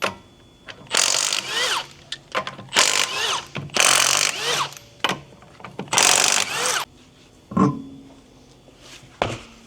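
Handheld power tool run in four short bursts of about a second each, its motor rising in pitch at each squeeze of the trigger, followed by a couple of light knocks.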